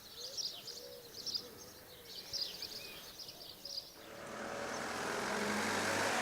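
Small birds chirping. About four seconds in, a car's noise swells as it approaches on a wet road.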